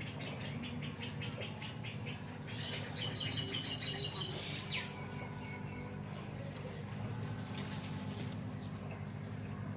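A bird chirping in quick runs of short, high notes, about six a second, with a second run around three seconds in that ends in a falling note. A steady low hum runs underneath.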